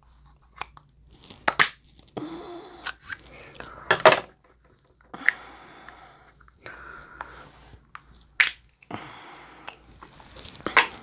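Close-miked eating of boiled crab: about four sharp cracks of crab shell being broken, between stretches of wet chewing.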